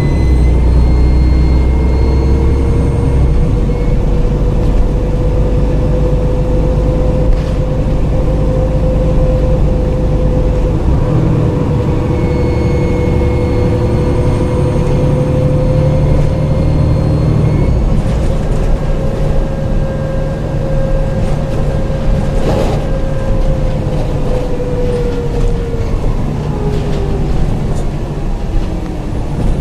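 Dennis Trident double-decker bus with a Voith automatic gearbox under way, its diesel engine running with a deep rumble and a steady whine. The whine rises slightly, holds, and fades out near the end. A single knock sounds about two-thirds of the way through.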